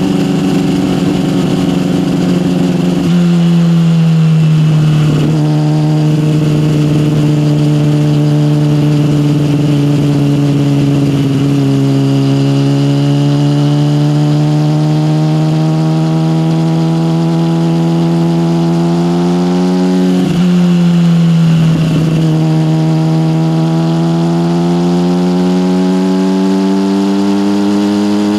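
Yamaha motorcycle with an SC Project aftermarket exhaust under way, its engine note climbing slowly under throttle, with a drop in pitch about three seconds in and several short breaks at gear changes.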